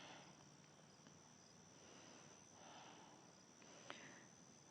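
Near silence: a faint, slow, deep breath picked up close by a lapel microphone about halfway through, over a steady thin high-pitched whine, with one faint click near the end.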